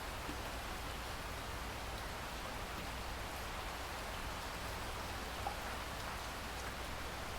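Steady rain falling, an even hiss with scattered drop ticks and one slightly louder drip about five and a half seconds in.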